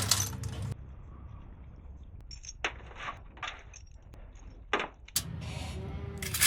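A few separate metallic clinks and knocks, like tools or small metal parts being handled, with a noisier stretch near the end.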